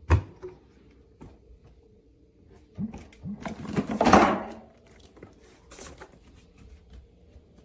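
Knocking and clattering of something being handled, like a lid or drawer, with a sharp click at the start and the loudest clatter about four seconds in.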